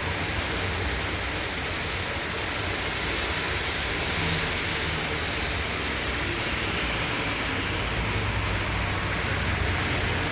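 Heavy downpour pouring steadily, a dense even hiss of rain with a low rumble beneath it.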